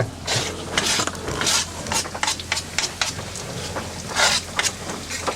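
Pieces of barracuda going into a hot frying pan with onion and butter, each one set off by a short burst of sizzling, at irregular intervals over a steady low hum.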